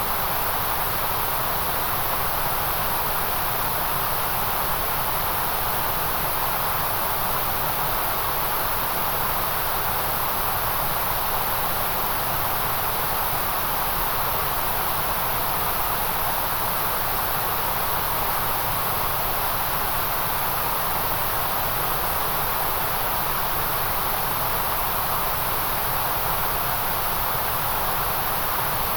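Steady white noise: an unchanging electronic hiss, strongest in the very high range with a softer band in the middle.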